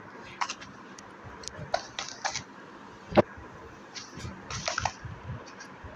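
Small clicks and taps of objects being handled and set down on a hard surface, with one sharp click about three seconds in.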